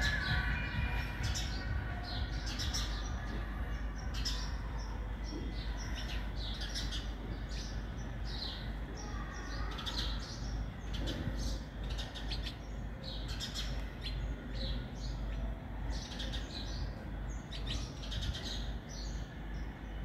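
Small birds chirping, short high calls repeating every second or so throughout, over a steady low rumble.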